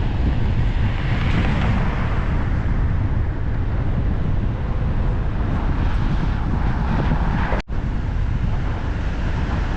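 Wind rushing over the microphone of a camera riding along on a bicycle, with traffic noise underneath; the sound drops out for an instant about three quarters of the way through.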